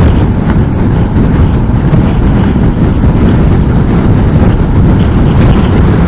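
Riding noise of a Honda NC750S motorcycle at speed in strong wind: a loud, steady rumble of wind buffeting the bike's external microphone, with engine and road noise underneath.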